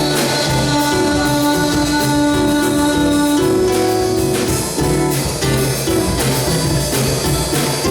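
Instrumental samba band music with guitar and drum kit: the closing bars of the song after the last sung line.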